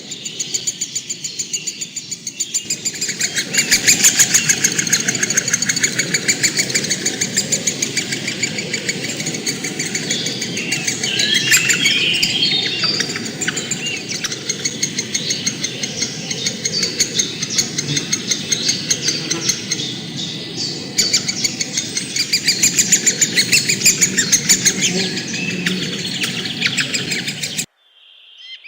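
Many birds chirping at once: a dense chorus of rapid, repeated chirps. It cuts off suddenly near the end.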